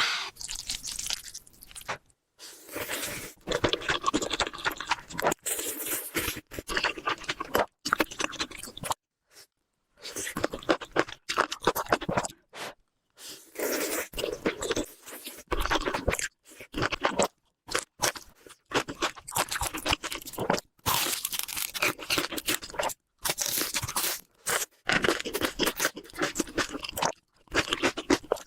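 Close-miked mukbang eating sounds: crunching and chewing, in short takes that break off abruptly into brief silences several times.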